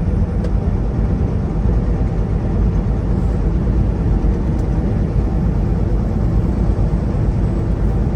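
Semi-truck cab noise while driving at road speed: a steady low drone of the diesel engine and tyres on the highway.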